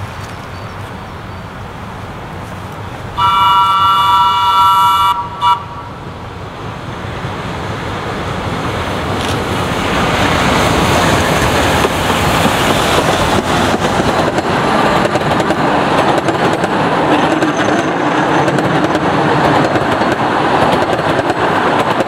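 Small 15-inch-gauge park railway train hauled by a battery-electric locomotive. Its horn sounds a blast of about two seconds in several tones, then a short toot. The train then approaches and rolls past close by, wheels running on the rails, getting steadily louder.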